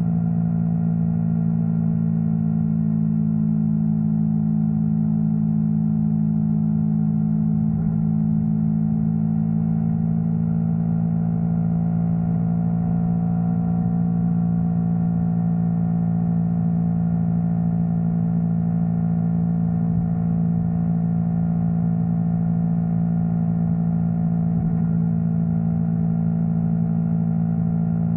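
Yamaha R3 parallel-twin motorcycle engine running at a steady, unchanging pitch.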